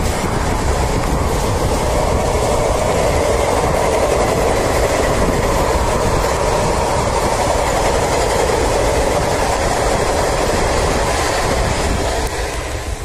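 Unchahar Express, an Indian Railways express train, running at speed, heard from aboard. A steady rumble and clatter of the coach wheels on the track.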